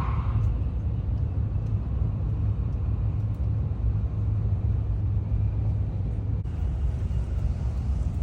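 Moving train heard from inside the carriage: a steady low rumble with an even hiss above it. The hiss shifts abruptly about six and a half seconds in.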